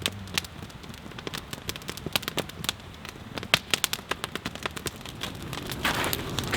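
Wood fire crackling, with irregular sharp pops from the burning logs. A louder rushing hiss swells up near the end.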